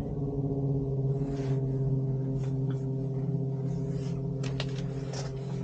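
Steady low hum with evenly spaced overtones in a helicopter cockpit whose turbine has not yet been started, with a few faint clicks near the end.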